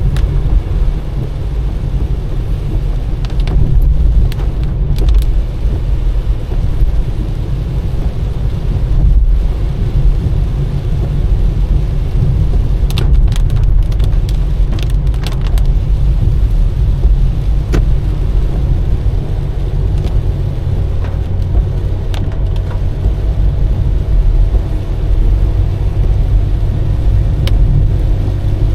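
Car driving: steady low rumble of engine and tyres on the road, with scattered light ticks.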